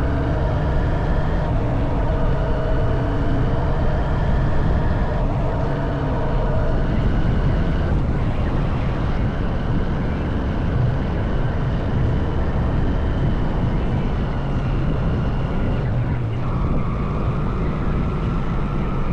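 Honda CB190R's single-cylinder four-stroke engine running while riding, under a heavy low rush of wind and road noise. The engine's pitch steps up or down several times as the revs change.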